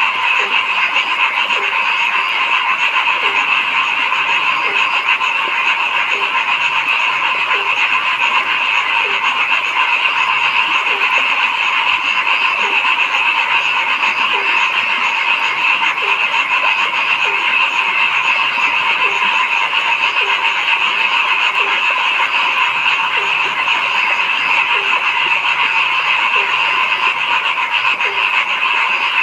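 A dense, steady chorus of many frogs calling, with one lower croak repeating about once a second over the top.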